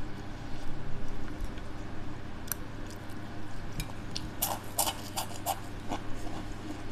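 A person chewing a mouthful of food, with a quick run of crisp, crunchy bites about four and a half to five and a half seconds in.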